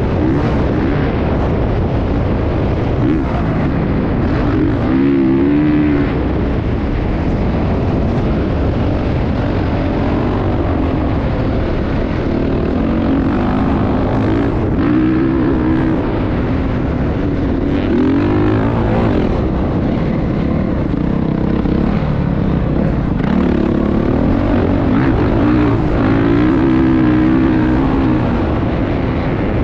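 Motocross dirt bike engines running, their pitch rising and falling again and again as the throttle is worked, over a constant rumbling noise.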